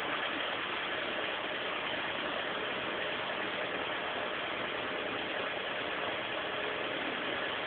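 Volkswagen Gol's engine idling steadily.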